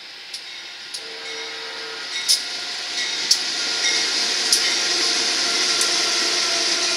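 BNSF freight train's diesel locomotives passing close by, the rumble swelling as they go past. A short horn note sounds about a second in, and sharp clicks come every second or so.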